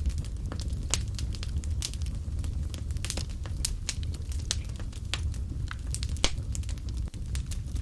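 Wood fire burning in a fireplace: a steady low rumble with irregular crackles and pops, one louder snap about six seconds in.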